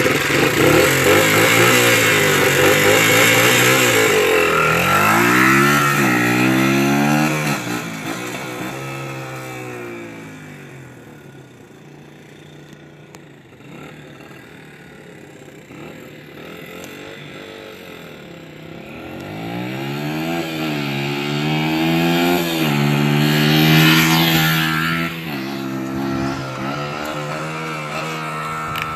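Dirt bike engine revving up and down through the gears as the bike rides away, fading into the distance, then growing louder again as it comes back, loudest about 24 seconds in.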